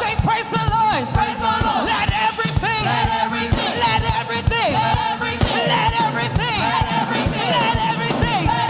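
Live upbeat praise band music with a steady drum beat, and voices singing and shouting over it.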